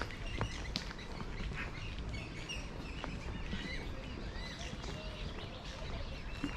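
Many birds chirping and calling over and over, with a steady low rumble of wind on the microphone.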